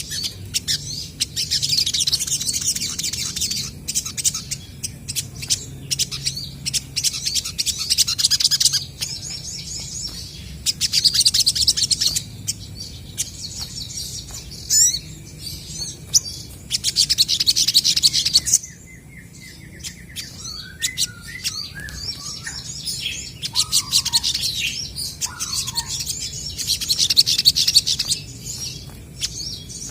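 Olive-backed sunbirds calling back and forth in repeated bursts of rapid, high twittering chatter, each a second or few long, with a few lower whistled notes about two-thirds of the way through.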